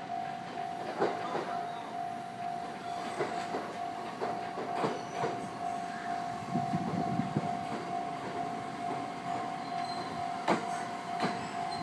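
JR East E501 series electric train arriving slowly at a station platform: scattered clicks of the wheels over rail joints and points, with a rumble as the cars roll past about two-thirds of the way through. A steady high tone runs underneath.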